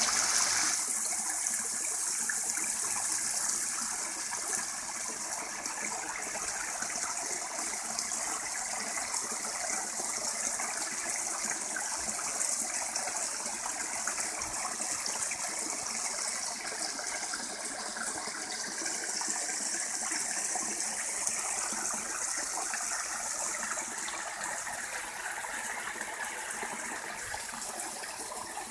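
Small woodland waterfall: water falling and splashing in a steady, even rush.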